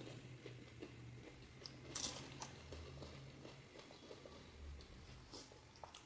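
Panipuri being bitten and chewed: faint crunching and chewing of the crisp puri shells, with a louder crunch about two seconds in.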